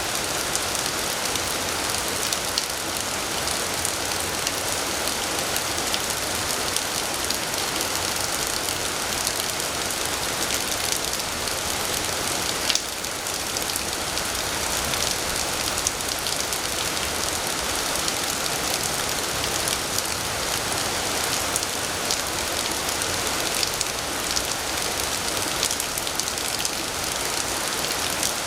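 Heavy rain falling steadily, a dense even hiss with many individual drops ticking on a surface. There is one brief louder tick about halfway through.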